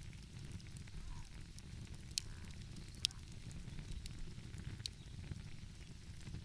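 Wood fire crackling, with three sharp pops standing out over a steady low rumble.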